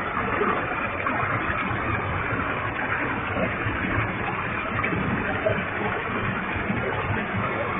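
Waterfall with a heavy flow of water: a steady, even rush of falling water.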